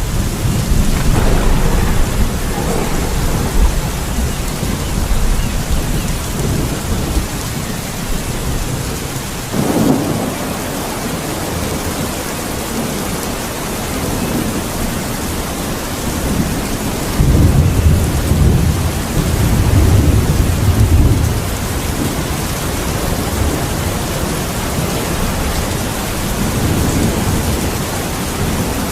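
Steady heavy rain with rolling thunder. The deep rumbles swell several times, loudest about two-thirds of the way through.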